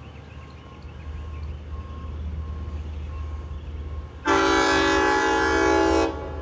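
Train horn sounding one long blast of nearly two seconds, a loud chord of several notes that starts about four seconds in and cuts off sharply, over a steady low rumble.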